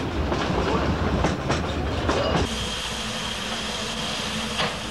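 Narrow-gauge railway carriage rumbling and clattering over the rail joints, heard from on board. About halfway through it cuts off suddenly to a steady hiss from a standing steam locomotive, with one knock near the end.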